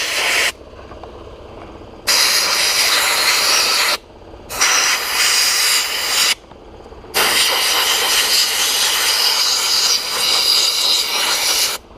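Air-driven sandblast gun spraying glass bead media onto an oxidized motorcycle engine, stripping the oxidation: a loud hiss in bursts. One blast cuts off about half a second in, then three more follow, about two seconds, two seconds and four and a half seconds long, with short pauses between.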